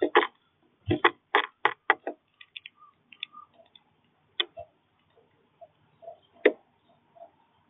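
Birds pecking and tapping at seed on a feeder: a quick run of sharp taps in the first two seconds, then scattered ticks and knocks, with a sharp knock about six seconds in.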